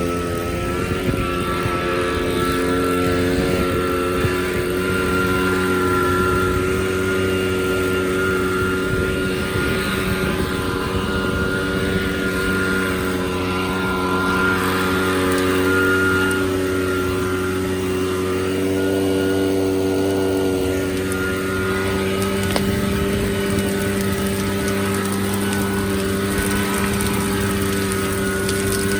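A small engine revs up and then runs at a steady, constant speed, a loud, even drone with no change in pitch.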